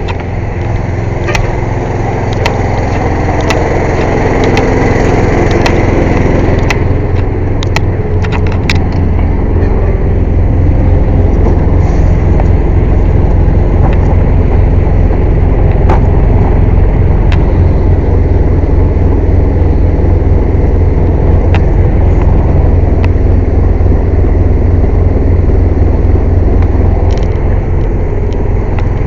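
Air compressor running loud and steady, a low drone that builds over the first few seconds and then holds. A few sharp clicks sound over it in the first nine seconds or so.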